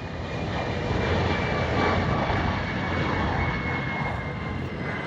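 Jet engines of an arriving Delta Boeing 767-300ER passing by, a deep rumble with a thin high whine that slowly drops in pitch. It is loudest a second or two in, then eases off.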